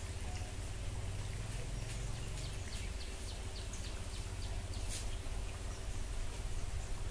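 A bird calling a quick run of about a dozen short, falling high notes, some four a second, starting about a second and a half in and stopping about three seconds later. A steady low rumble runs underneath.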